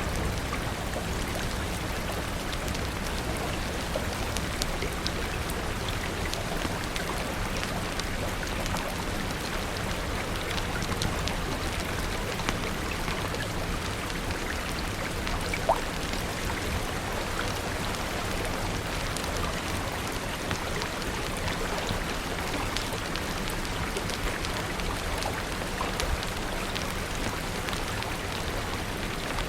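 Steady rain, with many scattered sharp ticks and pops throughout and one louder pop about halfway through.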